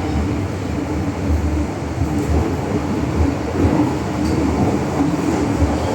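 Steady low rumble inside an MTR M-train carriage on the Hong Kong Island Line.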